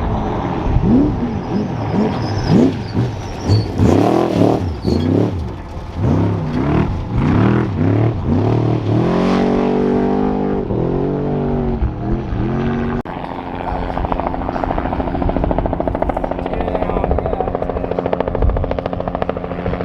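Trophy truck engine revving hard, its pitch sweeping up and down again and again as the throttle opens and closes. About two-thirds of the way through it cuts off abruptly to a steady helicopter drone with a fast, even rotor pulse.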